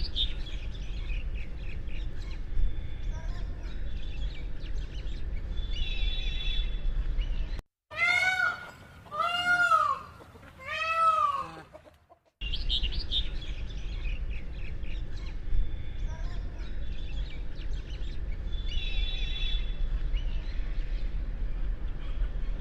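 Three loud, drawn-out calls from a peacock, each rising and falling in pitch, about a second and a half apart in the middle of the stretch. Before and after them, a background of mixed small birds chirping over a low rumble.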